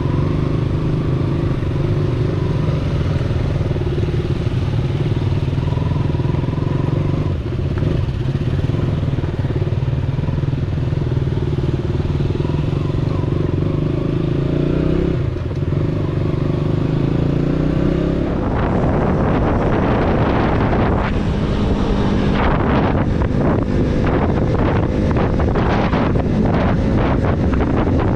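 Single-cylinder KTM motorcycle engine running steadily on the move. About 18 seconds in, a rough, gusty rushing noise with rapid irregular flutters takes over, as wind buffets the microphone.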